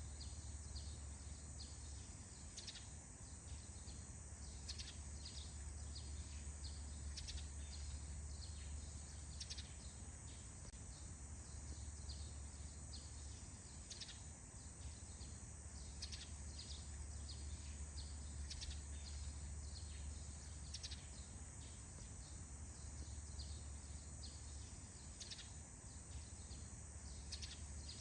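Faint morning forest ambience: many short bird chirps, several every second, over a steady high hiss and a low steady rumble.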